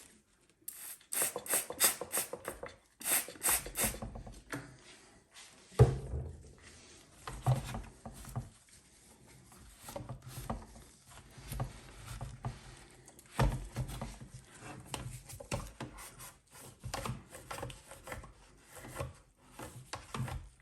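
A trigger spray bottle squirted several times in quick succession, twice over, then a cloth scrubbing and rubbing inside a washing machine's detergent drawer.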